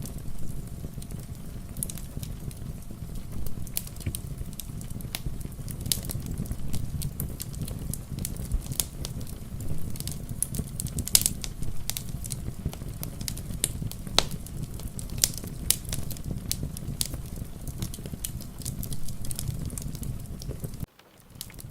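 Wood fire crackling, with many sharp irregular pops over a low steady rumble, mixed with falling rain. The sound drops out briefly near the end.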